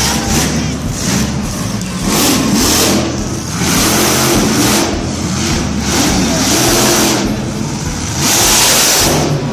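Monster truck engine revving hard again and again, its pitch rising and falling, loudest near the end.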